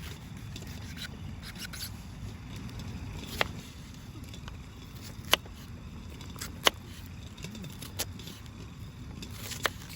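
Wood fire crackling, with five sharp pops spread over a low steady rumble.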